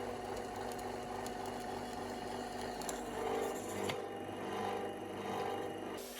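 A small electric motor running steadily with a constant hum, with a few sharp clicks and slight swells in level.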